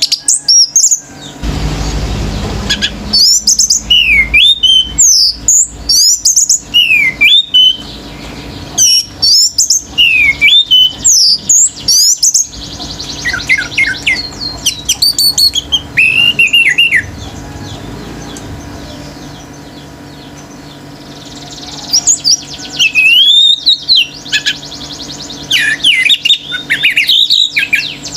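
Orange-headed thrush singing a loud, varied song of quick whistled notes and sweeping up-and-down glides, with other cage birds calling along. The song stops for a few seconds past the middle, then starts again.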